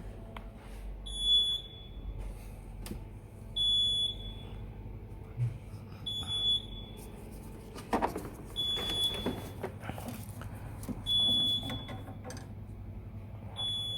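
Air-conditioning recharge machine beeping: a short, high beep that repeats about every two and a half seconds. Clicks and knocks from the hoses being handled come in around the middle.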